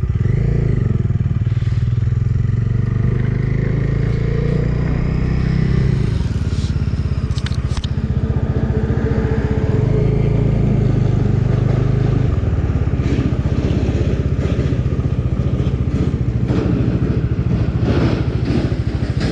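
Bajaj Dominar 250's single-cylinder engine running as the motorcycle slows and rolls off the road into a dirt lot, its note stepping down twice, about six and twelve seconds in. A few sharp clicks sound about seven to eight seconds in.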